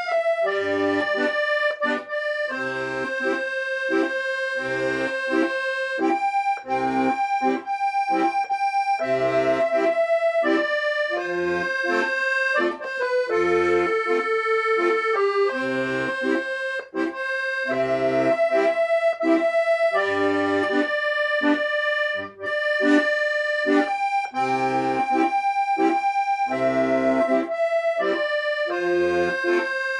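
Solo accordion playing a melody in held reedy notes over a steady rhythmic accompaniment of bass notes and chords.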